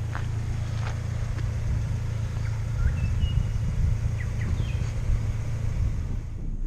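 1993 Toyota Hilux driving along, a steady low engine and road rumble. A few faint short high chirps sound over it in the middle.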